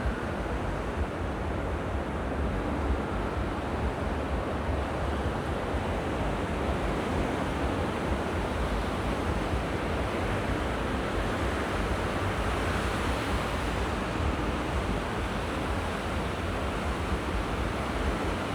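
Sea waves washing on the shore in a steady rush, with wind buffeting the microphone as a low rumble; the surf swells a little past the middle.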